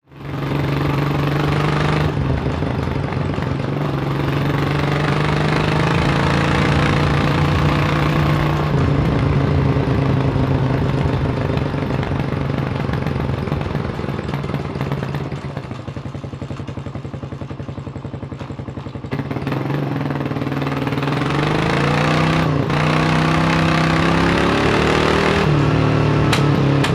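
Kawasaki KLR600's single-cylinder four-stroke engine running steadily under throttle, with brief breaks in pitch about 2 and 9 seconds in. About 15 seconds in it drops to a quieter, slower beat for a few seconds, then picks up again with rising pitch near 19 seconds.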